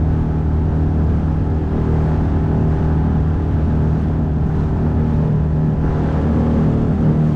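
A 9.8 horsepower outboard motor running steadily at speed, pushing a small boat across open water, with rushing water and hull noise underneath.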